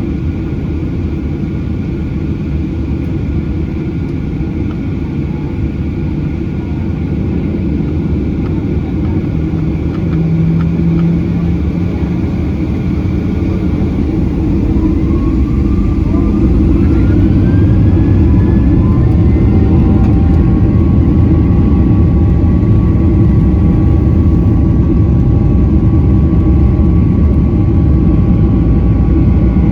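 Boeing 737-800's CFM56 jet engines heard from inside the cabin: a steady rumble, then about halfway through a rising whine as the engines spool up and the sound grows louder, settling into a steady high tone and heavy roar, typical of takeoff thrust being set.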